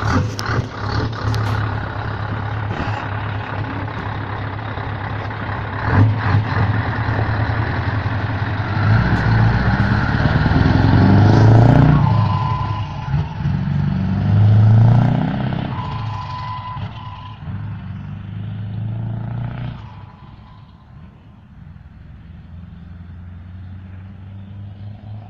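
Scania V8 truck engine running loud through an open exhaust pipe. It revs up twice in the middle, then the sound drops away near the end.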